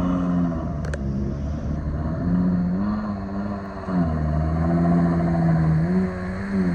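Ferrari 12Cilindri's 6.5-litre V12 engine running at low revs, its note rising and falling several times as the revs change. A single sharp click is heard about a second in.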